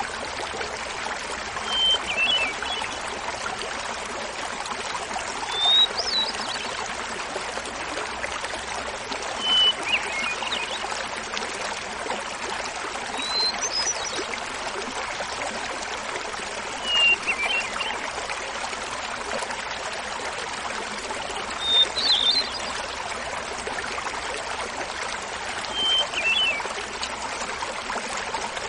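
Small waterfall babbling steadily, with a hermit thrush singing a phrase about every four seconds, seven in all: each one a held opening note followed by a quick, higher flourish, pitched differently from phrase to phrase.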